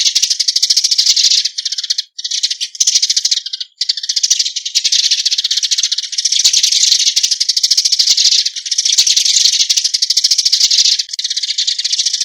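Eurasian tree sparrows chattering: a fast, continuous stream of chirps, with two short breaks about two seconds in and just before four seconds.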